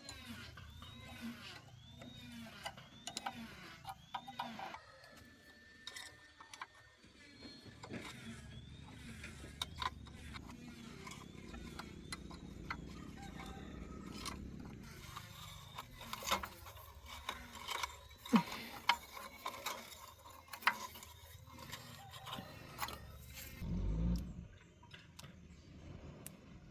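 Hand tools clicking and clanking on the metal parts of a harrow machine under repair. A series of short high chirps repeats over the first several seconds, and there is a low thud near the end.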